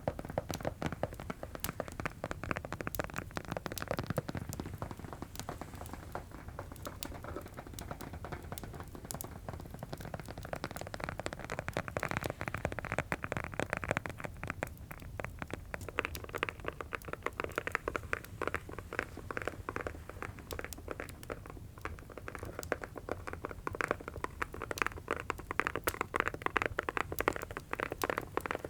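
Rapid, close-up tapping on a hard object, a dense stream of quick taps that gets a little brighter and busier now and then, over a crackling fireplace.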